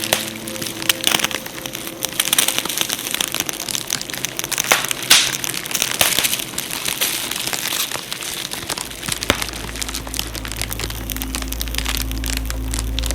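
Wood fire crackling and popping in quick irregular snaps, under soft sustained background music. A deep low note joins the music about nine seconds in.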